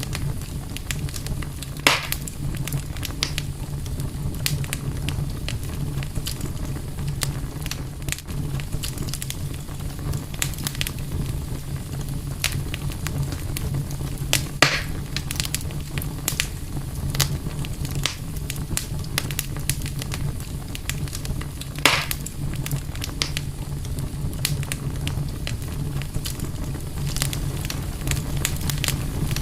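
Wood campfire crackling steadily with many small pops, three louder snaps spread through, over a steady low rumble.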